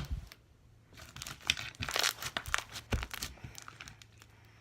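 Slime being stretched and blown into a bubble by hand: a sharp pop at the very start as a slime bubble bursts, then a couple of seconds of crackly, popping clicks as the slime is worked, fading out near the end.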